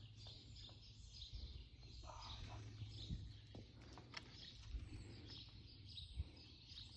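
Faint, high bird chirps, many short ones scattered through, over low background noise.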